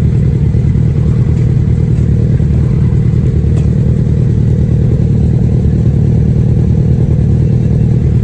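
Kawasaki ZX-10R's inline-four engine with its stock exhaust, running steadily while the bike is ridden. It is heard as a loud, even low rumble.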